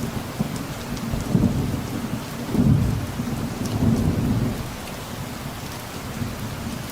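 Steady rain with distant thunder rumbling low underneath, swelling about a third of the way in and fading out past the middle, leaving just the rain.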